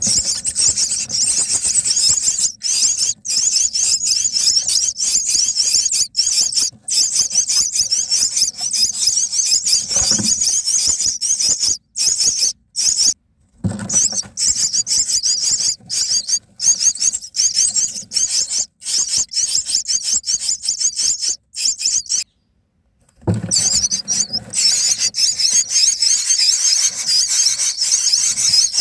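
Myna nestlings begging in the nest: a dense, continuous chorus of high, rapid squeaky calls, broken by a few short silences, with a few dull thumps.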